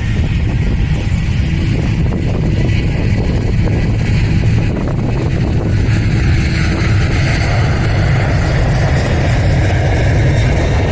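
Turboprop airliner engines running steadily, mixed with heavy wind rumble on the microphone.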